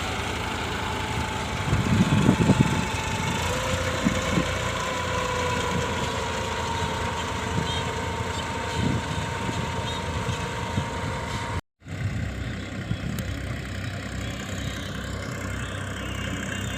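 An engine running steadily at idle, its pitch stepping up slightly about three and a half seconds in, with a few heavy thumps about two seconds in. The sound cuts out for a moment near the twelve-second mark and comes back as a rougher, steadier noise.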